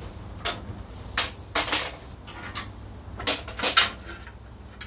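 Bandsaw parts being handled and set down: about seven sharp clinks and knocks, several coming in quick pairs.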